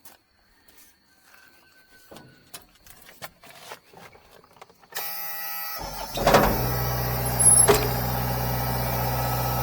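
A few faint clicks and knocks, then about five seconds in an engine is cranked by its starter, catches a second later and settles into running steadily.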